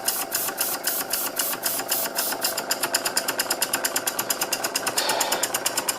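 Stuart No.8 model mill engine running fast on compressed air, its exhaust chuffing in rapid, even beats at about ten a second, with the cylinder drain cocks open. The engine is at about the top speed that the air compressor can drive it.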